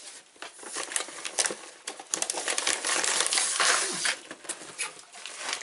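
Plastic snack wrapper crinkling as it is handled, a dense crackle of small clicks, loudest a little past the middle.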